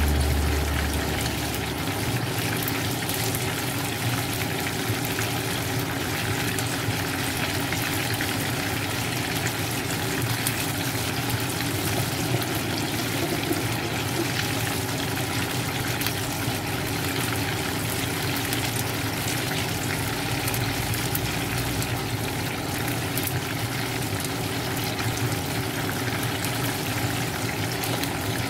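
Chicken wings deep-frying in hot oil in a pan, a steady sizzling bubble throughout.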